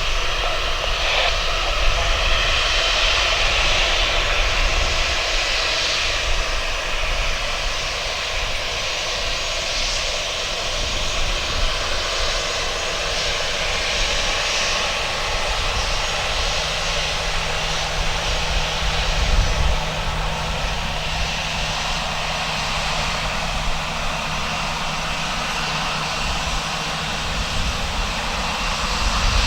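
Jet airliner's engines running with a steady, loud rush and low rumble as the plane lands.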